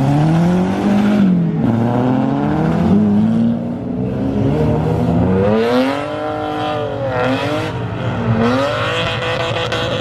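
Car engine revving, its pitch climbing and dropping again and again as the throttle is worked.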